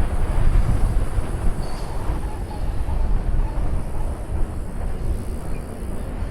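Wind buffeting the microphone of a moving bicycle's camera: a steady, fluttering low rumble with a thin hiss above it.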